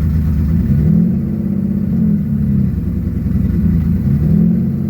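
Turbocharged Infiniti G35's V6 engine running, its speed swinging up about a second in and again near four seconds before settling back: an unsettled idle, which the owner says has not relearned.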